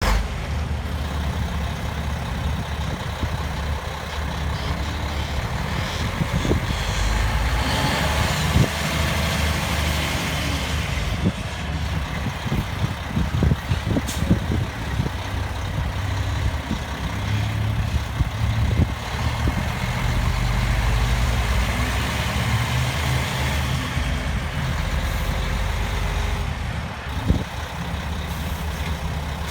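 Mack E7-427 12-litre diesel engine of a 2001 Mack CH613 truck tractor running steadily, with a few sharp knocks along the way.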